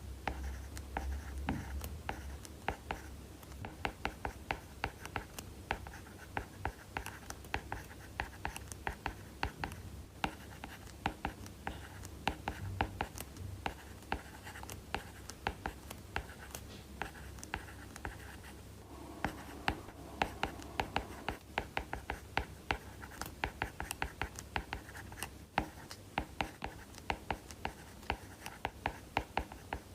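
Apple Pencil (2nd generation) with a UNAQUE tip writing on an iPad Pro's paper-like screen protector. It makes a quick, irregular run of sharp tip taps and short scratchy strokes as the handwriting goes on.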